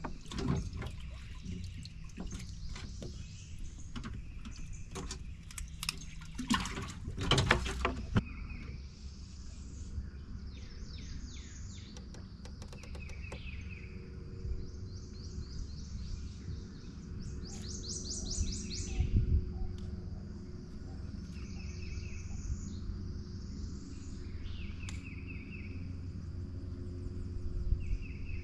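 Songbirds calling and singing repeatedly in short, high phrases over a steady low rumble. A run of sharp knocks and clatters fills the first several seconds.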